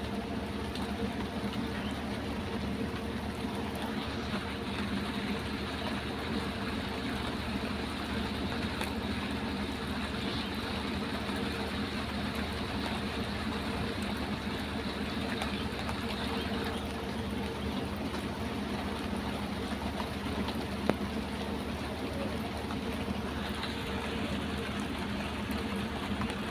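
Steady rain falling, a constant even hiss, with a low steady hum beneath it.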